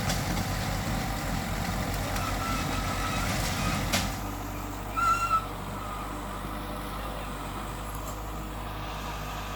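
Heavy diesel engine of earth-moving machinery running with a pulsing low note, easing to a quieter steady idle about four seconds in, with a short high squeal about five seconds in.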